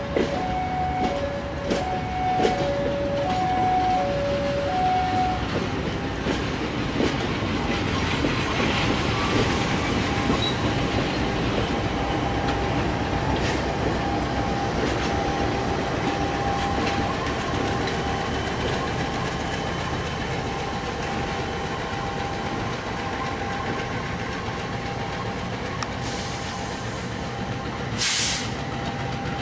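A train moving slowly over the rails and points during shunting, its wheels rumbling and clicking over the joints. For the first few seconds an alternating two-note warning signal sounds, and near the end there is a short loud hiss.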